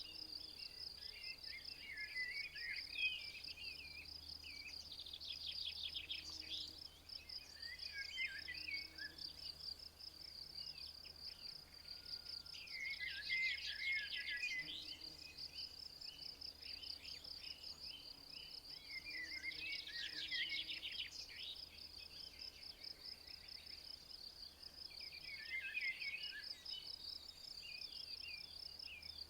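Insects chirring in a steady, unbroken high trill, while a songbird sings short trilled phrases about every six seconds.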